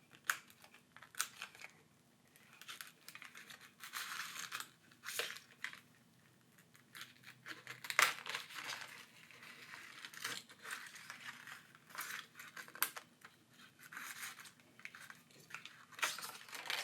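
Pry tools scraping under a cracked smartphone screen to cut through strong adhesive and lift it from the frame: irregular scratching and crackling, with sharp clicks of cracked glass.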